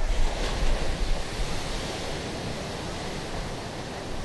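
Ocean waves breaking on a beach, a surge loudest in the first second or so, then settling into a steady wash of surf.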